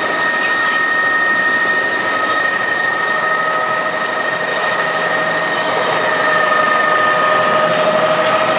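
Helicopter engine and rotor noise heard from inside the cabin: a steady whine over a constant rush.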